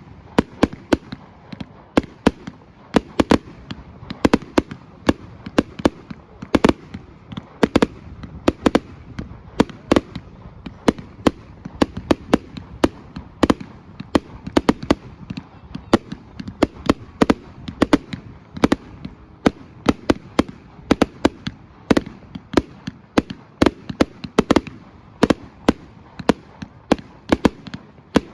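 Fireworks display: a rapid, irregular barrage of sharp bangs and cracks, several a second.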